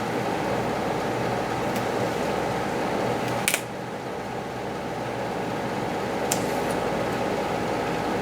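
Steady whir of a running fan, with a short sharp click about three and a half seconds in and a fainter click a few seconds later.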